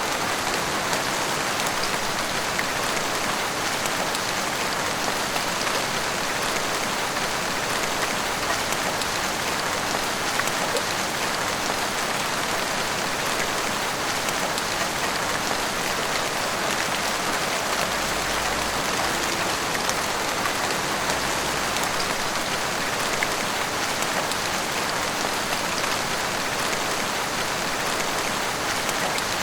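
Heavy rain pouring steadily on roofs and a street, a dense even hiss flecked with individual drop splashes.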